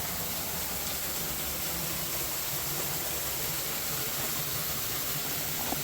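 Steady rushing hiss of water falling at a waterfall.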